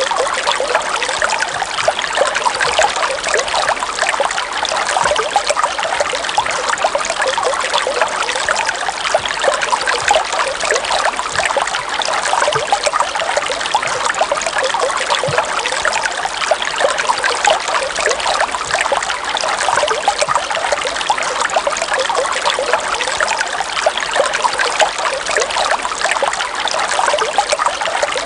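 River water running and trickling steadily, a dense babbling with no pauses.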